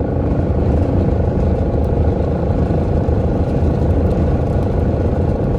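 Steady in-cabin noise of a car being driven: an even low rumble of engine and road.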